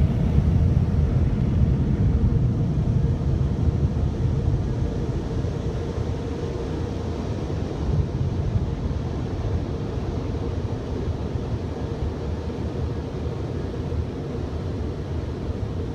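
Automatic car wash machinery heard from inside the car: a steady low rumble with a faint constant hum, slowly easing in level.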